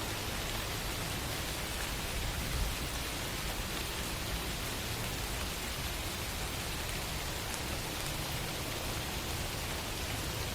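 Steady hiss with no distinct events: the recording's background noise floor during a pause in talk.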